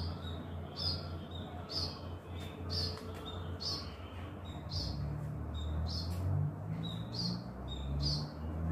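A bird chirping over and over, a short high chirp about once a second, over a low steady hum.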